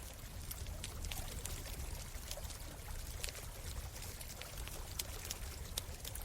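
A campfire crackling with frequent sharp, irregular pops over the steady rush of a flowing stream.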